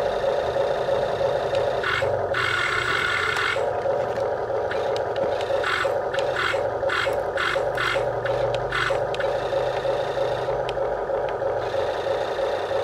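Small electric motors of a radio-controlled backhoe whirring steadily, with a run of short scraping, rattling bursts in the middle.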